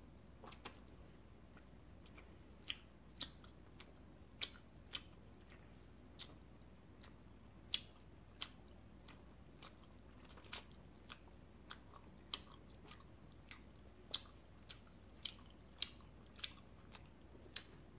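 Close-miked chewing of a long, soft gummy worm candy: quiet, sticky mouth clicks and smacks, irregular, one or two a second.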